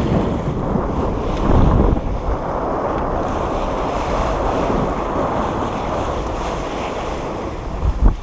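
Wind buffeting the microphone over the rush of water along a moving boat's hull, with louder gusts about a second and a half in and again near the end.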